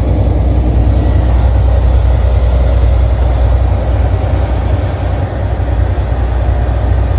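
Semi truck's diesel engine pulling up a long mountain grade, heard from inside the cab as a loud, steady low rumble mixed with road noise.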